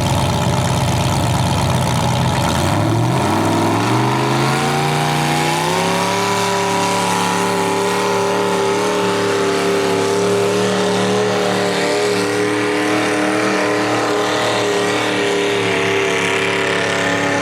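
Mini rod pulling tractor's engine holding a low, steady note for a couple of seconds, then revving up over about three seconds and holding high revs steadily.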